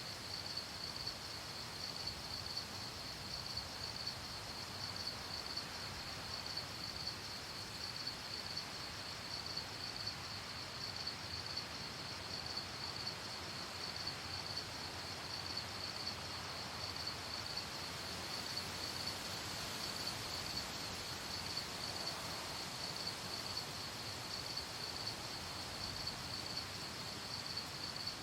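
Crickets chirping in a steady, fast-pulsing high trill that never breaks, over a faint background hiss.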